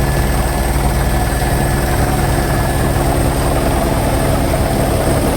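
Helicopter running steadily, its rotor giving a fast, even beat over a steady low engine drone.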